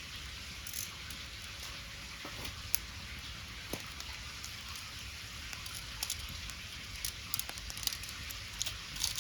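Wood fire crackling: scattered sharp pops over a steady hiss, the pops coming more often in the second half.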